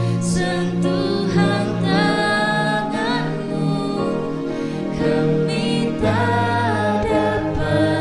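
Worship song: several voices singing long, held and gliding notes over sustained keyboard chords, with a low bass note that drops out for a few seconds mid-way.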